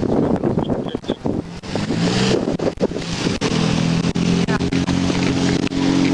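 A motor vehicle engine running close by, a steady low drone that comes in about a second and a half in and holds through the rest. Knocks and rubbing on the body-worn camera's microphone run throughout.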